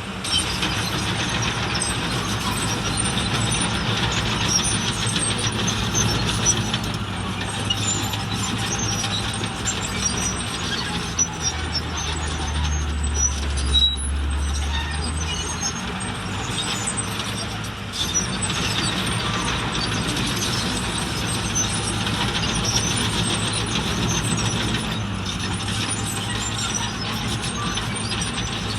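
Diesel engines of a bulldozer and dump trucks running steadily, with a deeper engine hum for a few seconds about twelve seconds in, over constant metallic rattling and clatter.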